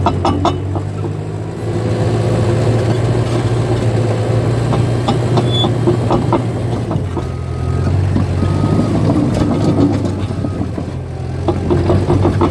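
Caterpillar bulldozer's diesel engine running steadily under work, with a fast clatter from its steel tracks near the start and again near the end.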